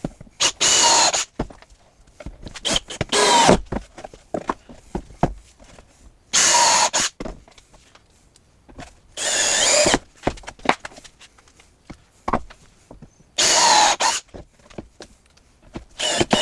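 Cordless drill driving screws in short bursts, about six times, each under a second, with the motor's pitch rising and falling. Small knocks and clatter of handling between the bursts.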